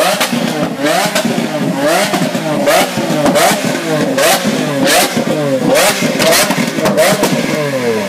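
Lamborghini Aventador's V12 engine being revved hard in quick repeated blips, about one every 0.7 seconds, the pitch rising and falling each time, with sharp cracks on many of the blips.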